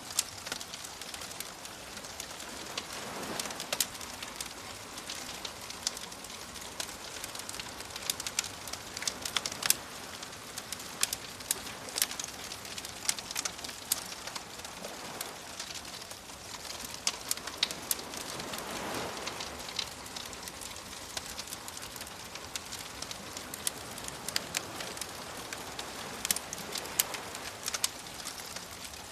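Bonfire crackling with frequent sharp pops, over soft ocean waves that swell and wash in a few times, several seconds apart.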